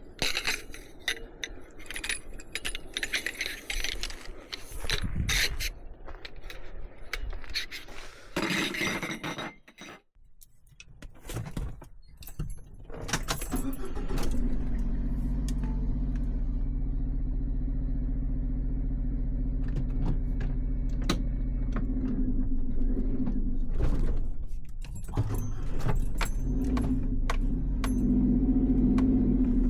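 Keys and gear clinking and clattering for the first ten seconds or so. From about thirteen seconds in, a Suzuki Every kei van's small three-cylinder engine runs with a steady hum.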